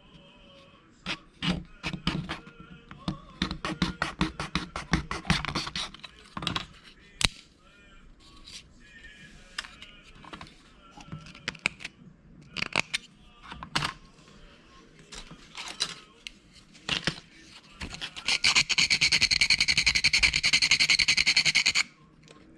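Clicks and scrapes of small plastic model-kit parts being handled on a workbench, then about three and a half seconds of loud, fast, even rasping near the end as the plastic is cut or sanded.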